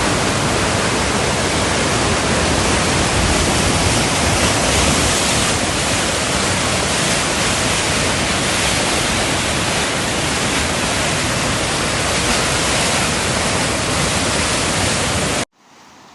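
Loud, steady rush of floodwater pouring through a wadi, starting and cutting off suddenly.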